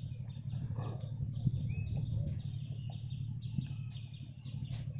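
Birds chirping and calling in short notes, a few of them brief rising whistles, over a steady low hum.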